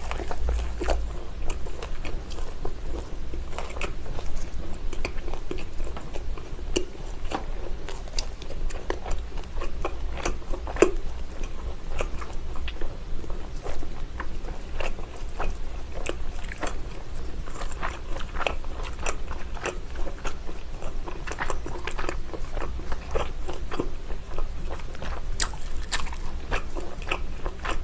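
Close-miked chewing and biting of jokbal (Korean braised pig's trotter): wet, sticky mouth sounds with many sharp clicks all through.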